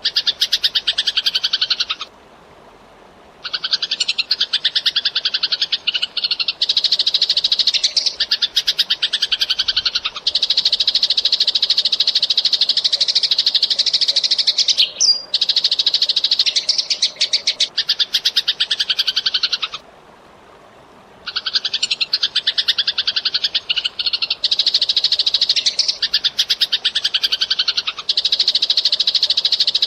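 Eurasian tree sparrow chattering in long, fast, tightly packed runs of high chirps, broken twice by pauses of about a second and a half.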